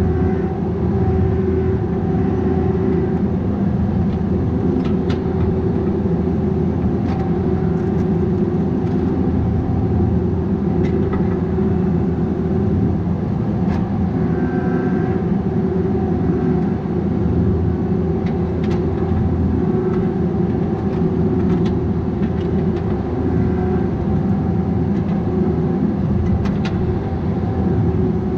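Bobcat 337G mini excavator's diesel engine running steadily, with scattered light clicks and knocks.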